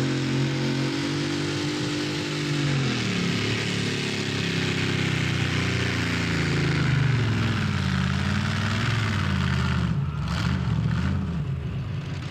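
Competition pulling tractor's engine running hard, its pitch dropping about three seconds in and then wavering lower, fading somewhat near the end.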